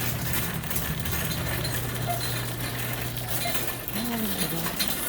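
Light metallic clinking and rattling, many small clicks over a steady low hum, with a faint voice about four seconds in.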